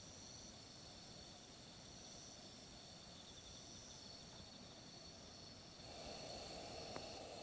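Faint insects chirping steadily in high, thin tones. Near the end a soft hiss rises, with a single click.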